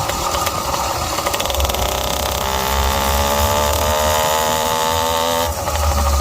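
Zeda YD100 two-stroke motorized-bicycle engine with an expansion-chamber pipe, running under way while ridden. Its note holds steady for a few seconds, then changes abruptly near the end. The owner describes the carburettor as still running rich.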